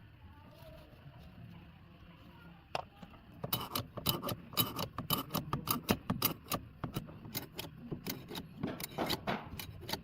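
Small metal parts or hand tools clinking and tapping in a quick, irregular run of sharp clicks that starts about three and a half seconds in.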